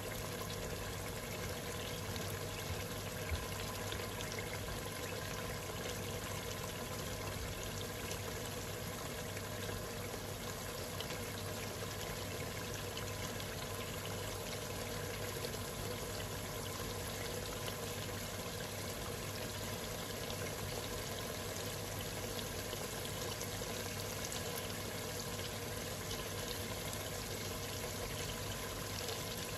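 Mutton and masala frying in oil in a cooking pot (handi): a steady, even sizzle, with a single light tap about three seconds in. The mixture is being cooked down until the oil separates.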